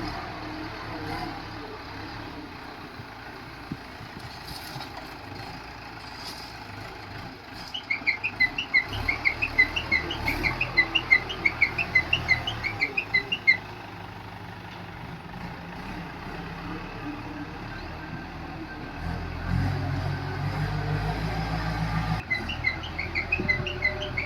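Bull backhoe loader's diesel engine running steadily, getting louder and working harder in the last few seconds. Twice over it comes a rapid string of loud, short, high chirps: once for about five seconds near the middle and again near the end.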